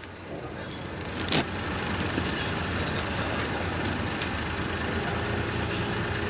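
A heavy engine running steadily, with a single sharp knock about one and a half seconds in.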